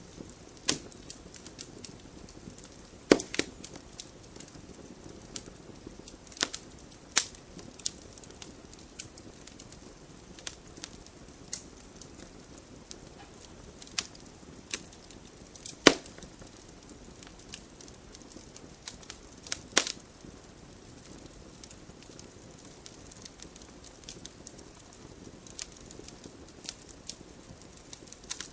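Wood fire burning in a fireplace, crackling with irregular sharp pops and snaps, three of them much louder than the rest, over a faint steady rush of flame.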